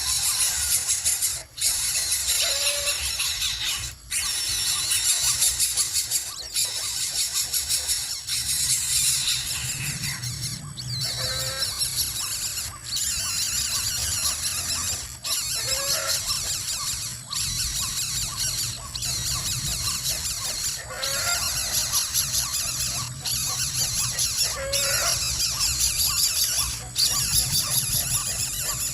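Shrill, continuous squealing with short rising squeaks every few seconds.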